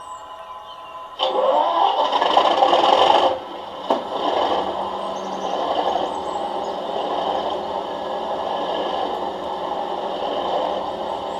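Sound decoder in an OO gauge Accurascale Class 37 model playing a diesel engine start-up through the model's small speaker: about a second in, a sudden loud burst of start-up noise for about two seconds, a click, then the engine settles into a steady idle.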